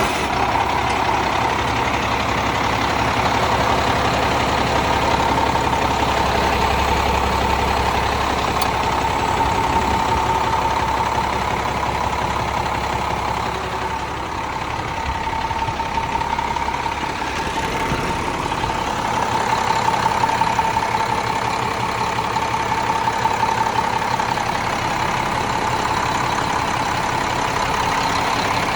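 Diesel engine of a 2008 International 8600 semi truck idling steadily just after being started, with a steady whine over the idle.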